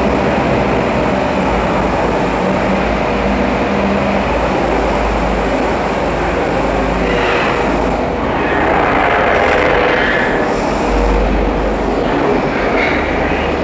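PAUS PMKT 8000 tunnel truck's diesel engine running as the truck drives through a tunnel, a loud, steady mechanical noise that swells briefly in the middle.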